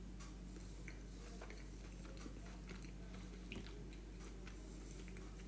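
Faint, close chewing of a mouthful of stuffed sweet potato, with a few soft clicks over a steady low hum.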